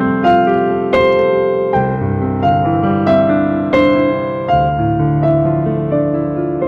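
Solo keyboard music in a piano sound: a slow melody with single notes struck about every three-quarters of a second over held, ringing chords.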